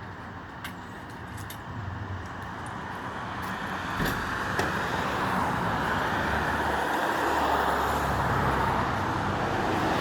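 Road traffic noise that grows steadily louder, with a couple of short knocks about four seconds in.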